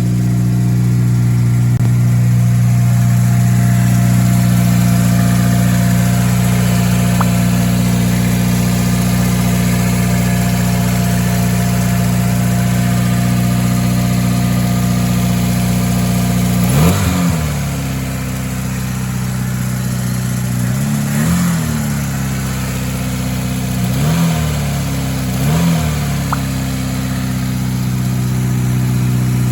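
Daihatsu Copen L880K's turbocharged 660 cc four-cylinder engine, tuned to about 100 hp, idling steadily, then blipped briefly four times in the second half, the pitch rising and falling back each time.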